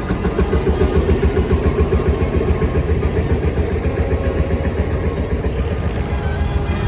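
Vintage tractor engine running steadily with a regular pulsing beat.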